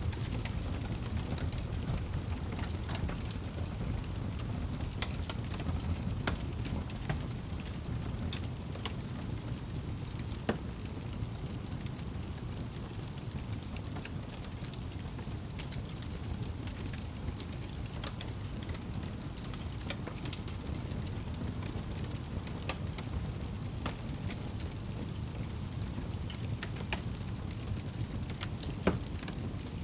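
Wood fire burning in a fireplace: steady crackling with scattered sharp pops over a low rumble of the flames, with two louder pops, one about ten seconds in and one near the end.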